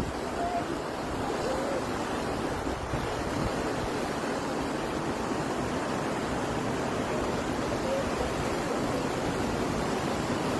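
Steady rushing noise of storm wind and surf, with no distinct events.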